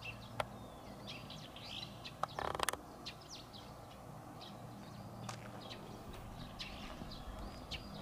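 Small songbirds chirping and twittering in many short, quick notes, with a few sharp clicks among them. A brief scuffing noise about two and a half seconds in is the loudest sound.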